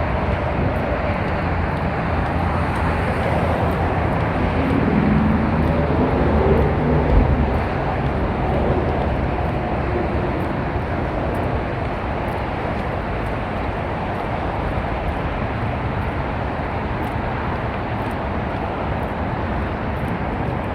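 Steady vehicle and road noise, with an engine note rising and then falling in pitch about four to eight seconds in.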